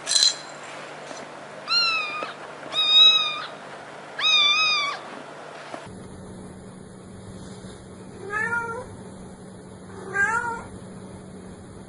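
Cat meowing: three drawn-out meows in the first five seconds, then, after the background hum changes about six seconds in, two shorter meows. A brief sharp noise comes right at the start.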